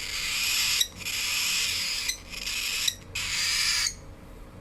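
Young cockatiel giving harsh, hissing food-begging calls while being hand-fed, four in a row of about a second each, dying down near the end.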